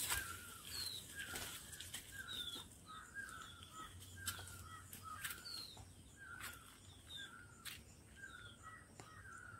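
A bird calling over and over outdoors, short repeated notes, each with a brief high falling part, about twice a second, with a few faint clicks among them.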